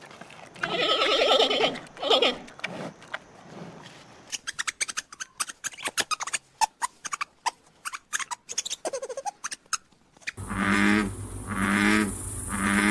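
A sequence of animal sounds: a loud call just under a second in, then a long run of rapid clicking chirps. About ten seconds in this gives way to a rhythmic pulsing chirp, about one pulse a second, over a steady high whine, like insects calling.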